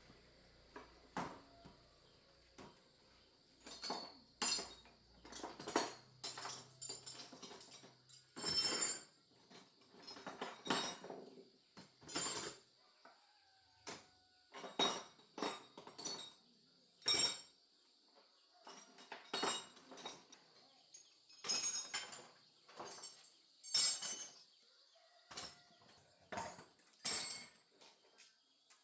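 Irregular knocks and clinks of hard objects being handled and struck, a few every couple of seconds, over a faint steady high hiss.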